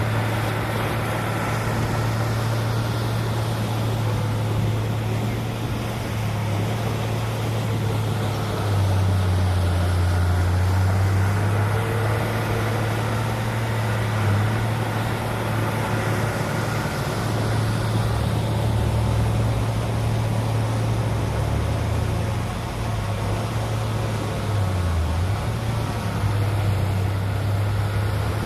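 Heavy diesel engine of earthmoving machinery running steadily with a deep drone, its pitch dropping lower for a few seconds a couple of times.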